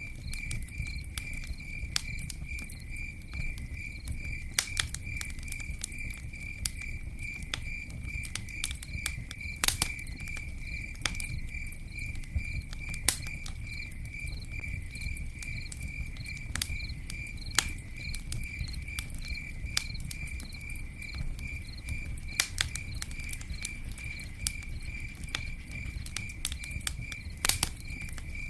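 Campfire crackling, with scattered sharp pops and a low steady rumble of burning. An insect chirps steadily alongside it in a fast, even, high-pitched pulse.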